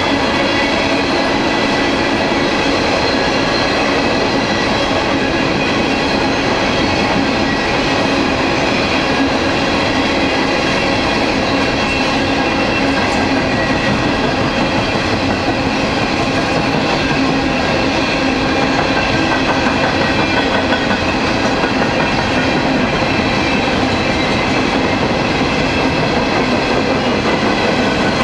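Coal hopper cars of a long freight train rolling steadily past, their steel wheels clattering on the rails. Thin, steady ringing tones sit above the rumble throughout.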